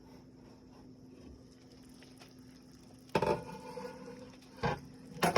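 Kitchen cookware knocked three times, a pot or lid clanking, the first knock ringing on for about a second.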